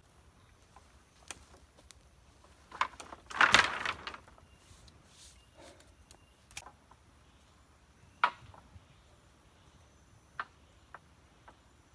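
Scattered sharp cracks and knocks of branches and undergrowth being handled while gathering wood. The loudest is a longer rustling burst about three and a half seconds in, with single cracks near eight and ten seconds in.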